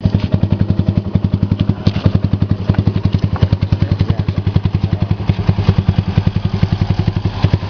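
Yamaha Sniper 135's single-cylinder four-stroke engine idling steadily, with an even beat of about ten exhaust pulses a second.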